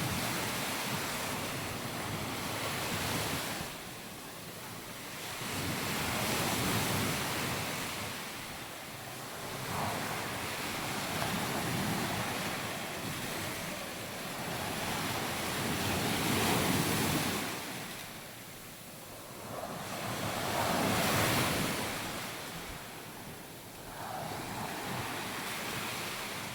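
Sea waves breaking and washing up on a sandy beach, the surf swelling and falling back every few seconds.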